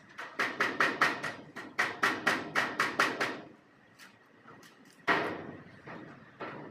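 Hammer striking metal: a quick run of about fifteen ringing blows, about five a second, then a pause and one single heavier blow.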